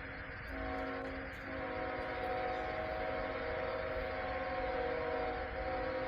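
Diesel freight locomotive's multi-chime air horn sounding, briefly broken twice in the first second and a half and then held as a long steady chord, over the low rumble of the train.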